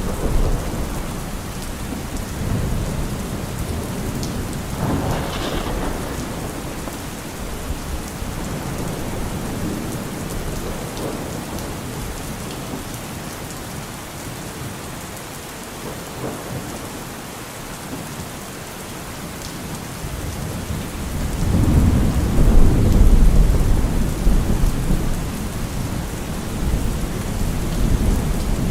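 Steady heavy rain with rolling thunder: a low rumble of thunder swells about three quarters of the way through, peaks loudly and then fades back under the rain.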